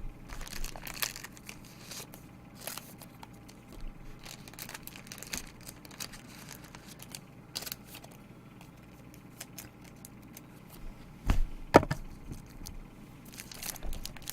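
Trading cards and their plastic packaging being handled: scattered rustling and crinkling, with two sharper knocks about eleven seconds in.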